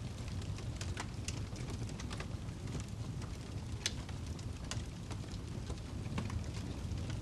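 Wood fire burning in a fireplace: a steady low roar of flames with irregular sharp crackles and pops from the burning log, a few louder snaps scattered through.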